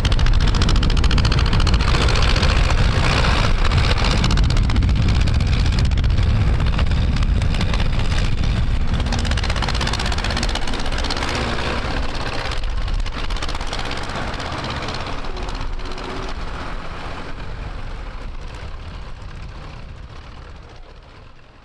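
Tractor engine running hard with a heavy low rumble, gradually fading and dropping away at the very end.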